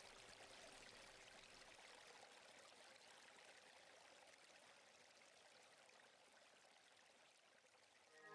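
Near silence: a faint, even hiss that slowly fades down between two pieces of music.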